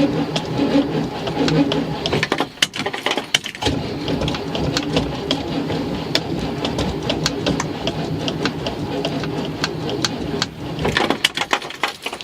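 Starter motor cranking the 1976 Ford Econoline E150's engine without it catching, a rapid rhythmic churning in long stretches with short breaks about 3 s in and near the end. It is a crank-no-start, with fuel still priming through a long temporary line from a small tank.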